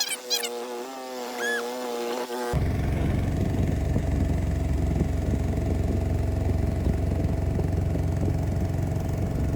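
A steady pitched drone with a few high whistled calls. About two and a half seconds in it cuts abruptly to a motor engine running steadily with a dense low rumble.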